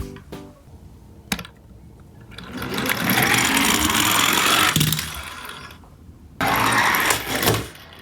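Toy garbage truck minicar running, its small plastic wheels and drive mechanism making a whirring rumble: one run builds and fades over a couple of seconds, then a second shorter run starts suddenly about six and a half seconds in.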